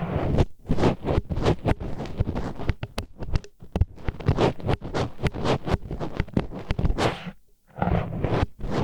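Disposable wooden chopsticks scraping and rubbing against the wall of a microphone's ear in ear-cleaning ASMR: a rapid run of rough, gritty scratching strokes, several a second, with a brief pause about seven seconds in.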